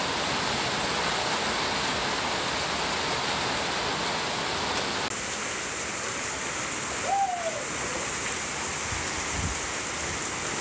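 Heavy tropical rain pouring down, with water running off the roof edges onto the stone paving: a steady, even hiss of falling water. About seven seconds in, a short hooting call rises and falls over it.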